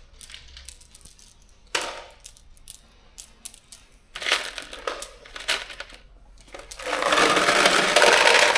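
Metal bolts clinking as they are dropped and sorted by hand, in scattered clicks, then a continuous loud rattle for the last second or two as a batch of bolts is poured.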